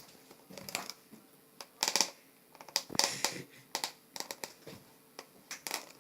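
Slime being squished and stretched by hand, making irregular sticky clicks and little popping crackles.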